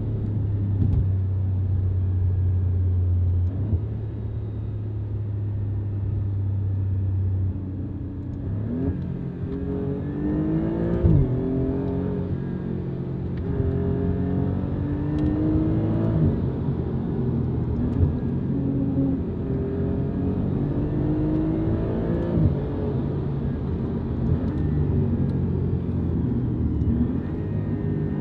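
Alfa Romeo Giulia Quadrifoglio's twin-turbo V6 through a Pogea Racing exhaust, heard from inside the cabin: a steady cruising drone for the first several seconds, then repeated accelerations, the engine pitch rising and dropping through gear changes, with a couple of sharp cracks.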